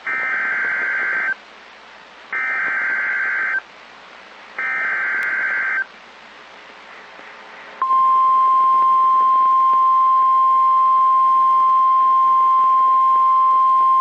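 NOAA Weather Radio emergency alert: three harsh, buzzing one-second bursts of SAME digital header data with short gaps between them, then, about eight seconds in, the steady single-pitch 1050 Hz warning alarm tone begins and holds. These signals announce a severe thunderstorm warning.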